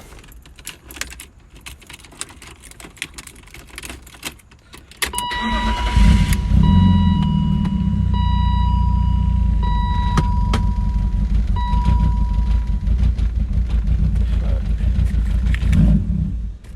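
Keys jingling and clicking, then about five seconds in an E36 BMW's engine is started: a loud, low sound lasting about eleven seconds, with a high tone sounding on and off over it, that cuts off suddenly near the end.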